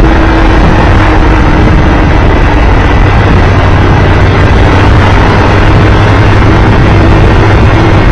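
Triumph Tiger Explorer 1200's three-cylinder engine running steadily under way, at an unchanging pitch with loud road and wind rush.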